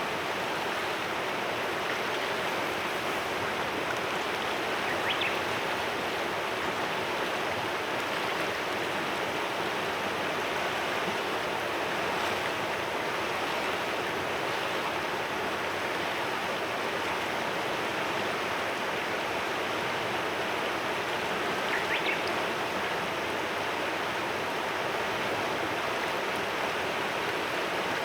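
Clear mountain river flowing with a steady rushing murmur. Two faint, brief bird chirps come through it, far apart.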